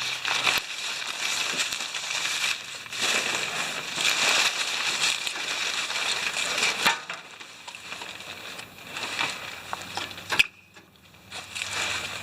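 Crunching, rustling noise, loud for about seven seconds, then quieter with scattered clicks, a single sharp knock about ten seconds in and a brief burst of rustling near the end.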